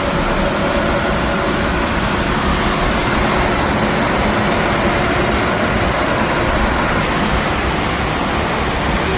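Steady, loud rushing of heavy rain and floodwater, with a faint steady hum under it.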